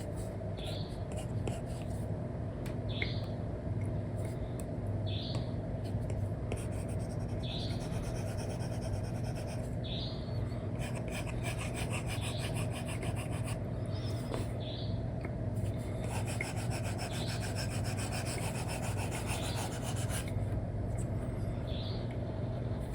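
Stylus nib rubbing and scratching across a paper-like matte screen film on a tablet, in short strokes about once a second that turn into denser scratching through the middle. A steady low hum lies underneath.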